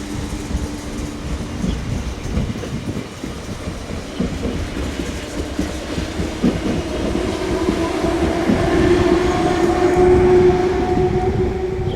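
A train running through the station: its wheels clatter over the rail joints, with a steady whine that grows louder toward the end.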